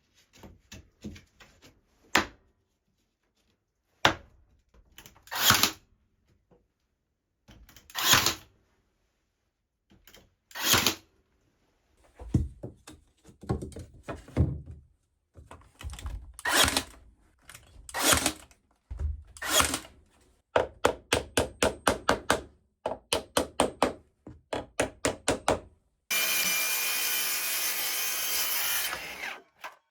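Wood being sawn by hand, in single strokes at first, then a quicker run of strokes. Near the end this gives way to a steady hiss with a faint whine, like a power tool running.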